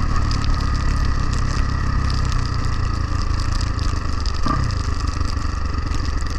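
Honda XR250R's single-cylinder four-stroke engine running steadily, with a brief change in the engine note about four and a half seconds in.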